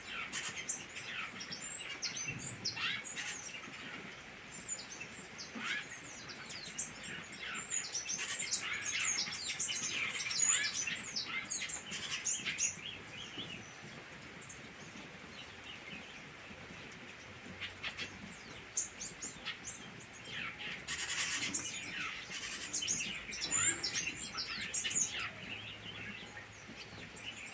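Several captive diademed tanagers (sanhaço-frade) singing at once, in overlapping chirps and song phrases that come in busy stretches, over a steady hiss. The birds are stirred up and ready to breed.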